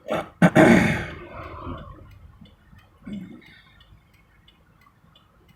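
Steady ticking at about two and a half ticks a second, like a vehicle's turn-signal indicator clicking in the cab. A loud sudden burst comes right at the start and trails off over about a second, with a smaller one about three seconds in.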